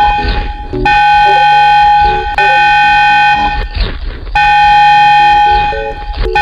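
A loud, buzzing horn-like tone in long blasts of about one and a half to two seconds, sounding three times with short breaks, over a tune of short lower notes.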